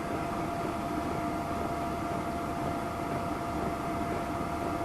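Diesel air heater running steadily: an even drone with a thin, steady whine over it.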